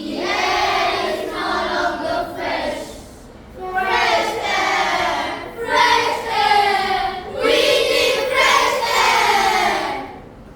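A group of young schoolchildren singing together in unison, in four phrases with short pauses between them.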